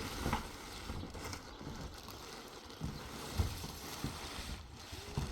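Outdoor wind rumbling on the microphone, with a few irregular soft thumps.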